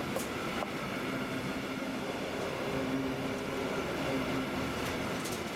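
Freight train of semi-trailers on low wagons rolling past close by: a steady rumble and hiss of wagon wheels on the rails, with a faint hum and a few brief sharp clicks from the wheels.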